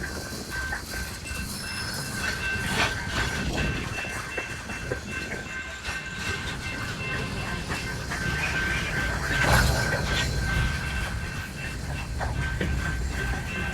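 BNSF freight train cars rolling slowly on the rails, with a low rumble, irregular clanks and knocks, and a steady high-pitched squeal. The sound swells briefly about two-thirds of the way through.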